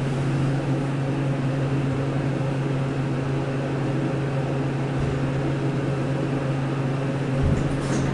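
Modernized elevator machinery running with a steady hum and a low droning tone, with a brief low thump near the end.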